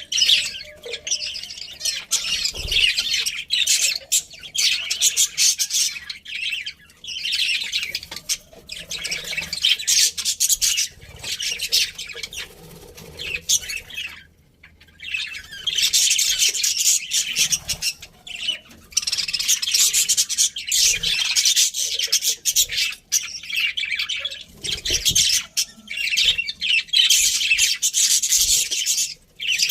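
A flock of budgerigars chattering, with dense warbling chirps and squawks in long runs broken by short pauses, and a brief lull about halfway through.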